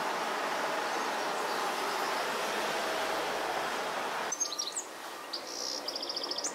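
Steady outdoor background noise that cuts off abruptly about four seconds in. It gives way to small songbirds chirping, with a short fast trill of repeated high notes and a quick falling chirp near the end.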